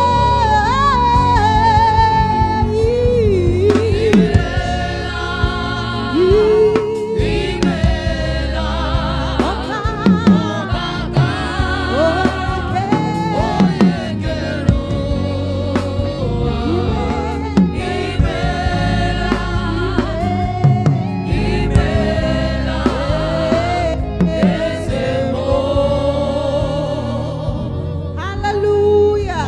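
Live gospel praise singing: lead and backing voices, with wide vibrato, over a band with a steady bass line and drums.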